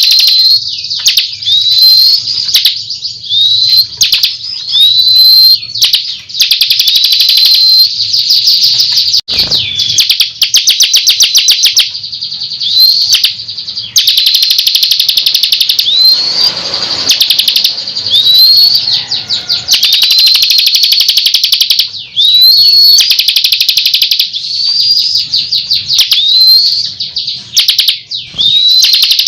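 Bar-winged prinia (ciblek) singing loudly and almost nonstop: fast, high buzzy trills broken by short whistled notes that hook upward, repeating every second or two.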